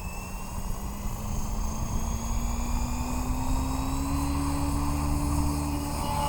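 Align T-Rex 550X electric R/C helicopter's brushless motor and rotor head whining and humming, rising steadily in pitch as the rotor speeds up.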